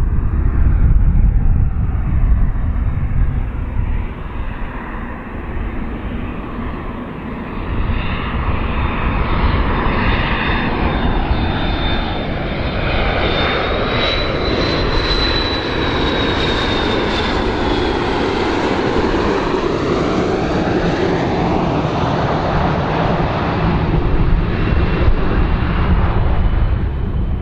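Airplane engines running loud and steady as the aircraft passes, a deep rumble and roar with a thin high whine that rises and falls about midway.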